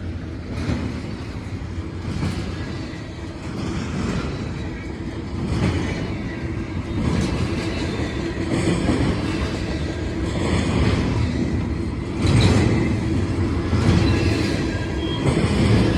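Norfolk Southern intermodal freight train rolling past, with a steady rumble from its cars. Its wheels clack over rail joints in a regular beat, about once every second and a half to two seconds.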